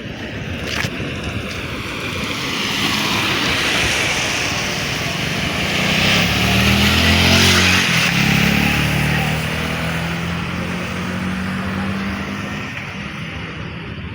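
A motor vehicle passing by: engine and tyre noise swell to a peak about halfway through, then fade away.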